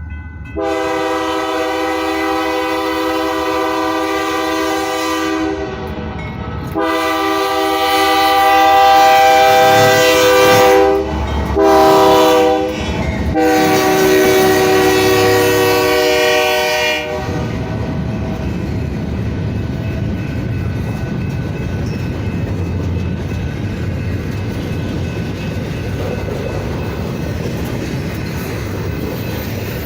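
Diesel freight locomotive's multi-note air horn sounding the grade-crossing signal: long, long, short, long. It is followed by the steady rumble and clatter of the train's wheels rolling past.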